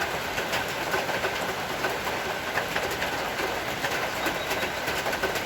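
Rain falling steadily: an even hiss thick with the sharp ticks of individual drops striking hard surfaces close to the microphone.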